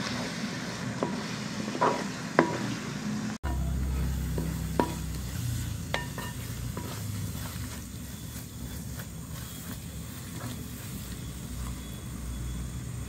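Onions and masala paste sizzling in a metal pot as they are stirred with a wooden spatula, with a few sharp knocks of the spatula against the pot. The spice paste is being sautéed until its raw smell cooks off. After a cut about three seconds in, a low rumble runs under the sizzling.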